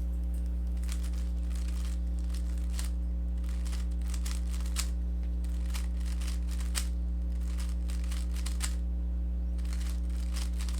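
Plastic Rubik's cube being turned quickly: an irregular run of small clicks and clacks as the layers snap round while an algorithm is executed, over a steady low electrical hum.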